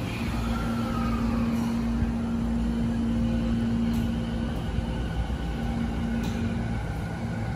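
Electric commuter train pulling away from a station platform: a steady electric hum over a low rumble as it moves off, with a short falling tone about half a second in.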